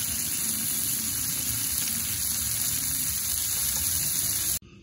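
Steady rain hiss heard from inside a tent. It cuts off suddenly near the end.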